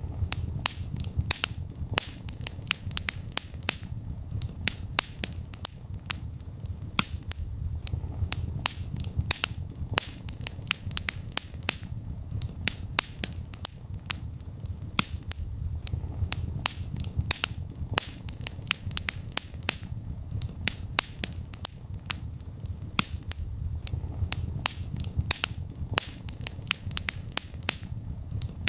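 Wood fire burning in a fireplace, crackling with sharp pops at an irregular pace, several a second, over a steady low rush of the flames.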